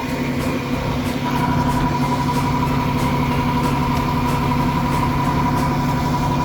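A large truck's engine idling, a steady drone with a constant whine above it.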